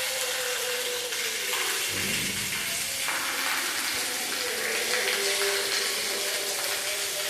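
Steady rain pattering as a dense, even hiss, with a faint steady hum underneath.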